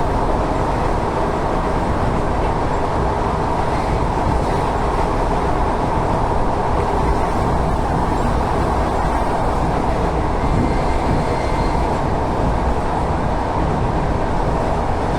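Steady running noise of an ET2M electric multiple unit in motion, heard from aboard by the window: an even rumble of wheels on rails.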